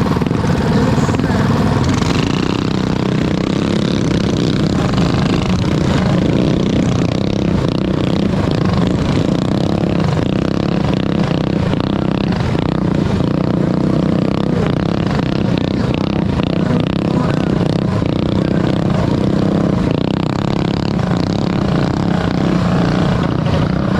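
A pack of Predator 212cc single-cylinder four-stroke mini bike engines running hard in a race, a steady, continuous engine noise.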